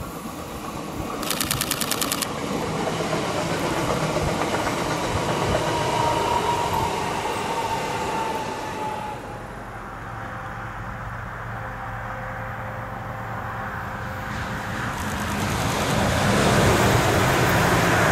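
DB class 440 (Alstom Coradia Continental) electric multiple unit passing, its wheels clicking rapidly over the rail joints about a second in. After about nine seconds the sound changes to a lower, steady vehicle hum that grows louder near the end.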